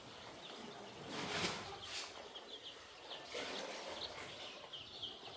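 A flock of young chicks peeping, many short high chirps overlapping steadily. Two brief rustling noises come about a second and two seconds in.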